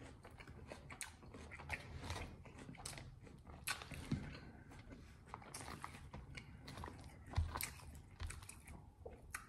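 A person chewing a mouthful of crisp lettuce salad: faint, with a scatter of small crunches and a few soft knocks.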